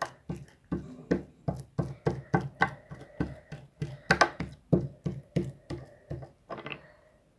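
Homemade glue-and-liquid-soap slime being squeezed and worked, making short wet pops and squelches about three times a second that stop shortly before the end.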